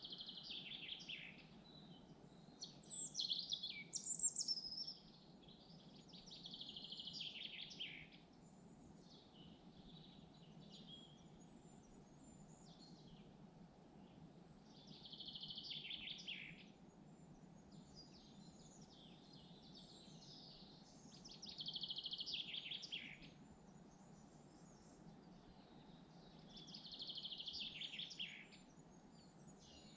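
Songbird singing short, falling phrases of a second or two, repeated every five or six seconds with fainter calls between, over a steady low rush of wind.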